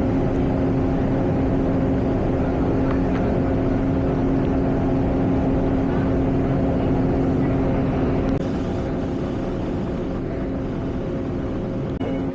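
Engine running steadily at constant speed, a continuous drone with a strong steady hum; it gets a little quieter about eight seconds in.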